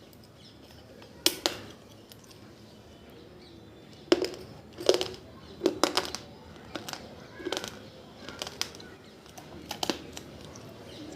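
Clay diya, soaked in water, being crushed: sharp crunching cracks at irregular intervals, about ten of them, with the loudest about a second in and again around four to five seconds in.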